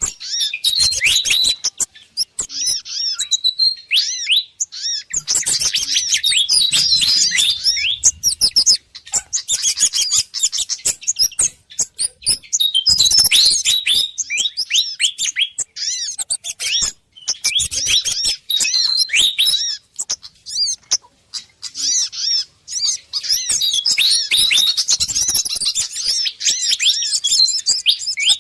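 Agitated fantail (sikatan kipas) calls mixed with other small songbirds' calls, as a bird-trapping lure. The chirps are rapid, high and twittering, coming in bursts of a few seconds with short breaks between them.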